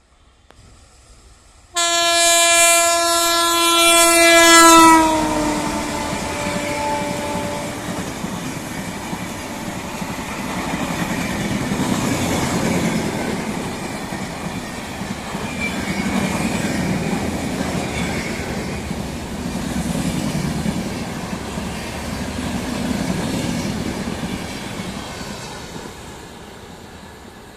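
Indian Railways express train passing at speed. Its locomotive horn blasts loudly about two seconds in, holds for a few seconds, then drops in pitch as it goes by. The rumble and clatter of the coaches follows, swelling every few seconds, and dies away near the end.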